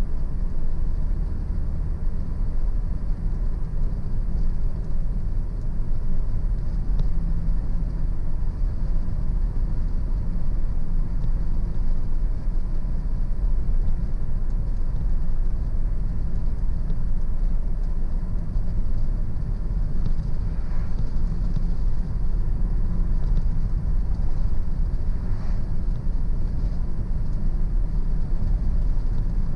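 A car driving at a steady pace, with a continuous low rumble of engine and tyre road noise.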